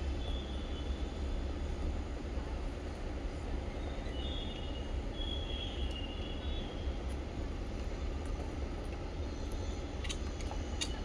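A steady low rumble fills the background, with faint high chirps from small pet birds now and then and two sharp clicks near the end.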